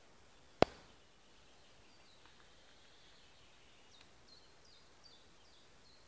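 A single sharp click about half a second in, then faint small-bird calls in the forest: a quiet high twitter, then near the end a run of five short high notes, each dropping in pitch, over a steady faint hiss.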